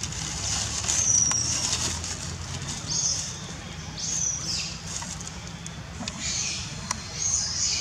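Short high-pitched bird calls repeating about every one to two seconds, some dipping in pitch, over a steady low hum.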